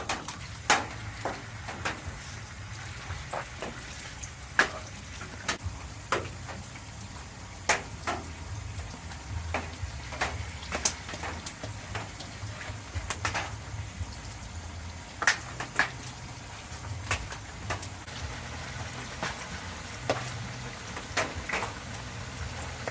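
Food frying in hot oil, crackling with scattered sharp pops over a low steady hum.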